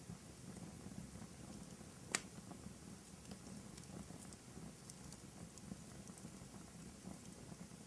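Wood fire burning in a fireplace: a low steady flutter of flames with scattered small crackles and one sharp pop about two seconds in.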